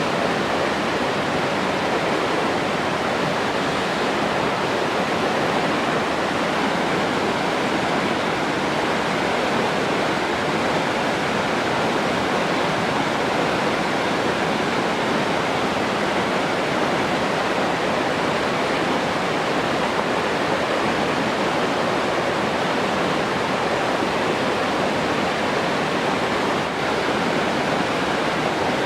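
Steady rushing of falling or flowing water, an even noise with no breaks or distinct splashes.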